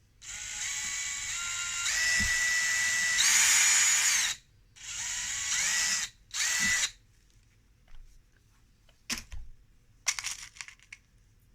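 Power drill pre-drilling a pilot hole in a wooden beehive frame: the motor runs about four seconds with its pitch rising in steps, stops, then runs twice more briefly. A few light clicks and knocks follow near the end.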